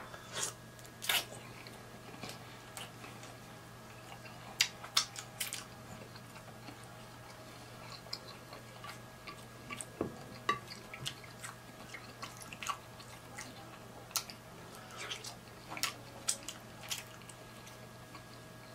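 Close-up chewing of boiled shrimp, with irregular wet mouth clicks and smacks. A faint steady hum runs underneath.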